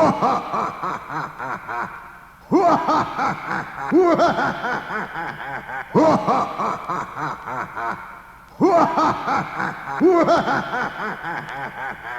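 Recorded laughter in bursts of chuckling and snickering, each burst starting loud and trailing off; the same stretch of laughing seems to repeat about every six seconds, like a looped laugh recording.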